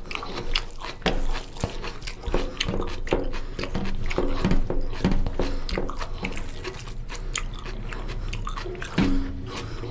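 A person chewing and biting mouthfuls of fatty mutton curry and goat trotters with rice, with many short wet mouth clicks and smacks.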